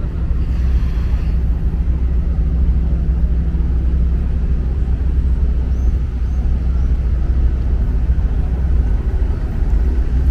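Abra's inboard diesel engine running steadily under way, a loud low rumble.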